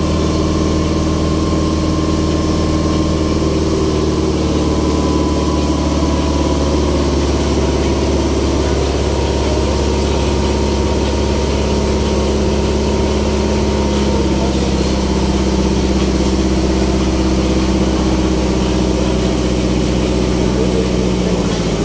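Ferry boat's engine running steadily, heard from on board: a constant low hum with a faint high whine that drifts slowly lower in pitch.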